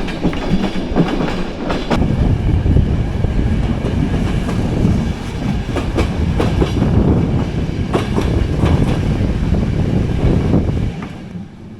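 Bulgarian passenger train running along the line: a loud, steady rumble of the carriage with irregular clicks and clatter of the wheels over the rails. The noise drops off about a second before the end.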